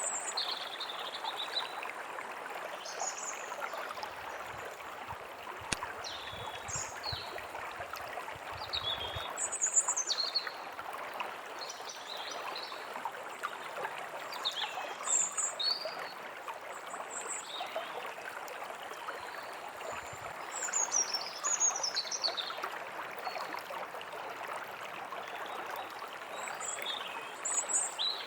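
A stream running steadily, with small birds chirping and trilling over it in short, scattered phrases.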